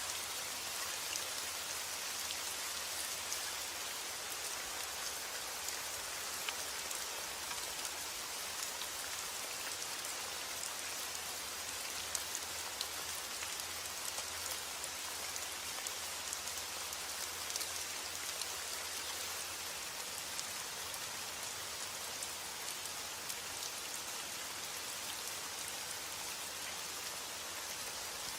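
Steady rain falling, an even hiss dotted with many individual drops ticking.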